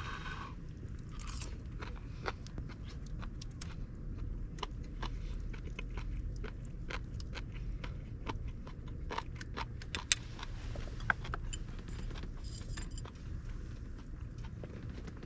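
Irregular sharp crackles and clicks, a couple of louder snaps about two-thirds of the way in, over a steady low rumble.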